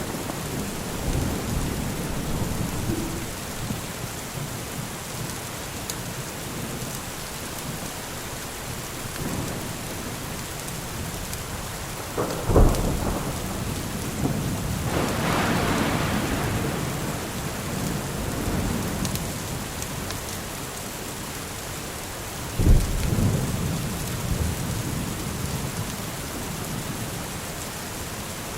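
Steady rain with thunder. Two sudden loud thunderclaps, about twelve seconds in and again about ten seconds later, with a rumble swelling up a couple of seconds after the first.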